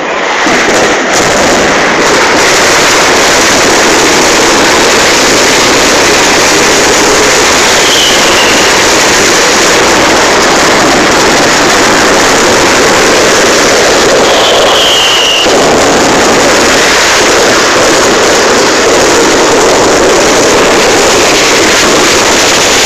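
Fireworks display heard loud and close, a continuous dense noise that swamps the phone's microphone. Short falling whistles come through three times.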